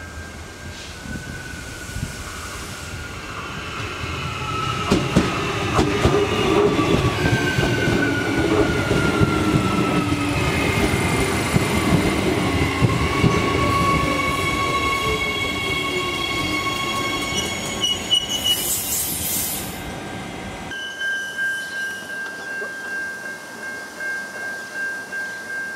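Adelaide Metro suburban passenger train approaching and passing close by: its wheels clack over rail joints, and a motor whine falls in pitch as it goes past, with a brief hiss near the end of the pass. Then a steady high tone comes from a train standing at the platform farther off.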